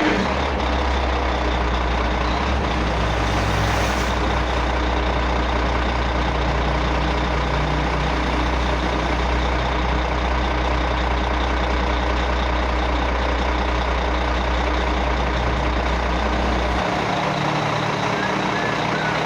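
Heavy diesel engine of a backhoe running with a steady low drone, which drops away about 17 seconds in.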